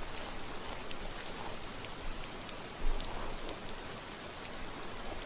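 Steady rain ambience, an even hiss with light pattering drops. A single low thump about three seconds in.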